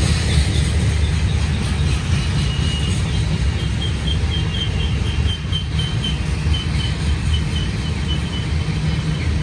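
Freight train of covered grain hopper cars rolling past: a steady, loud low rumble of steel wheels on rail.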